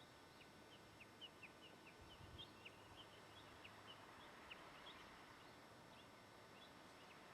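Faint small-bird chirping, many quick short calls, over quiet outdoor background.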